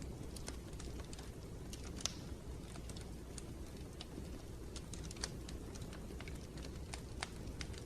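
Wood fire crackling in a fireplace: scattered sharp pops and clicks over a steady low rush of the flames, the loudest pop about two seconds in.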